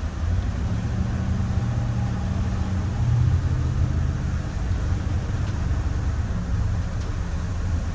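Micro Bird Girardin G5 bus driving, heard from inside: a steady low engine and road rumble whose engine note swells briefly about three seconds in, then settles.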